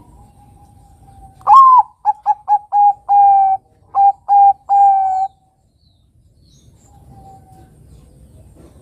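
Bangkok-type zebra dove (perkutut) cooing: a loud rising opening note, then a run of about seven short, clipped coos ending in a longer held note. A single faint note follows a couple of seconds later.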